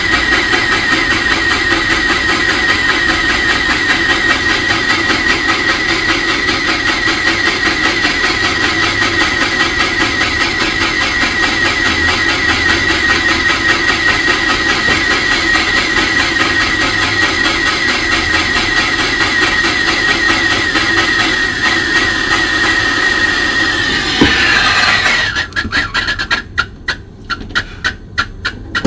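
Brazing torch burning with a steady roar and a high whistle while copper refrigerant pipes are brazed. The flame shuts off about 25 seconds in, its whistle dropping slightly as it stops, followed by a run of sharp clicks.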